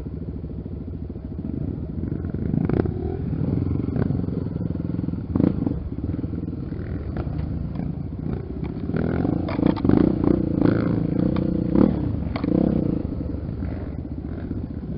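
Trail motorcycle engines running and revving, with some clatter, louder in the second half.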